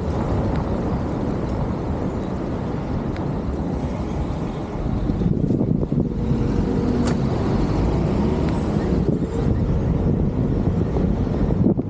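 Steady low rumble of a vehicle in motion, with wind on the microphone.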